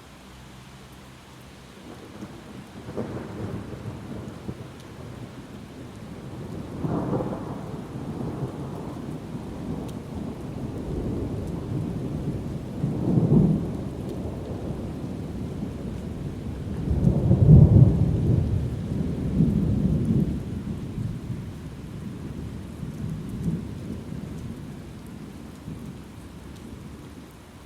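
Long roll of thunder over steady rain, swelling in several waves of deep rumbling, loudest about two-thirds of the way through, then dying away.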